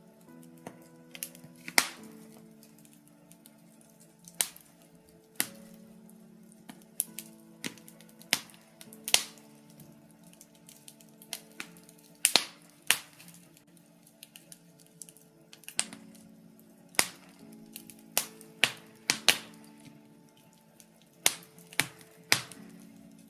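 Wood fire in a fireplace, birch logs crackling with irregular sharp pops, some much louder than others, over soft background music of slow held notes.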